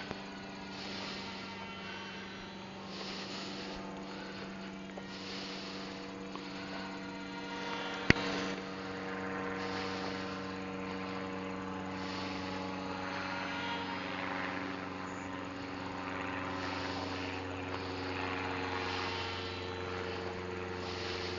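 Ultra micro RC airplane's small electric motor and propeller buzzing steadily in flight, the pitch shifting a few times as the throttle changes. One sharp click about eight seconds in.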